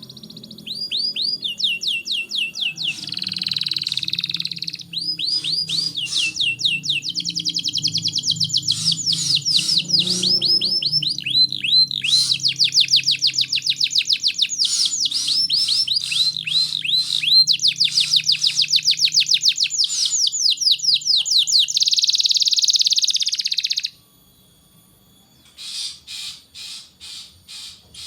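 Domestic canary singing a long, fast song of rapid repeated trills and rolls, breaking off near the end and then starting again with separate notes.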